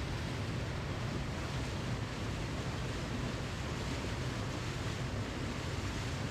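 Waterfall: a steady, unbroken rush of falling water, heaviest in the deep low range.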